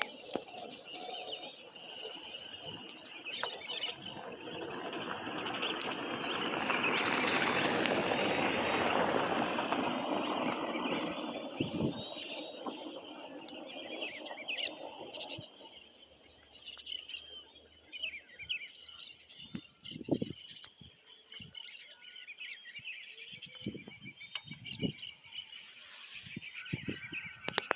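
Birds chirping and calling, with a steady high insect-like whine. A broad rushing noise swells up about four seconds in and fades away by about fifteen seconds.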